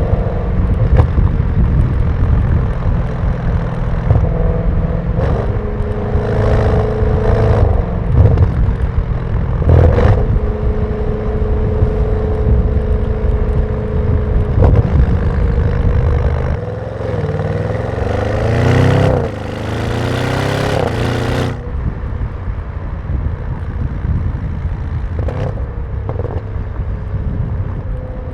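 Audi RS6 Performance's twin-turbo V8 exhaust running under way, with a few short sharp cracks. It rises in pitch in several pulls in the middle, as the engine revs up and accelerates.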